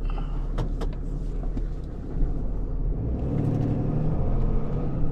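Vehicle on the move: a steady low engine and road rumble that builds about three seconds in, with a few light clicks over it.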